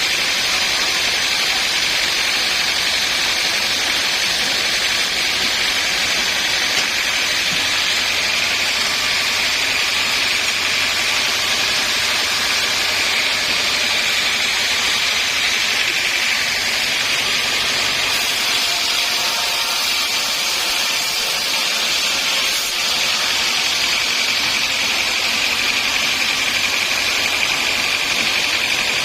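Sawmill saw running steadily, a loud even hiss with a high-pitched whine held throughout.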